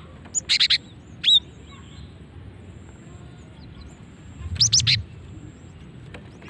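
Female cinereous tit (gelatik batu) calling: a quick burst of three or four high, sharp notes, a single note about a second in, then another rapid burst of four or five notes about two-thirds of the way through.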